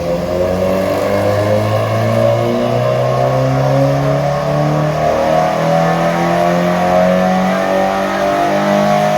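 A 1.4-litre car engine at full throttle on a chassis dyno, its pitch climbing slowly and steadily through the revs in one long power run.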